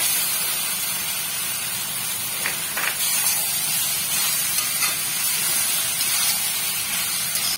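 Boiled vermicelli and vegetables sizzling in a hot iron kadhai as they are tossed with a slotted spatula: a steady, loud hiss with a few light scrapes of the spatula on the pan.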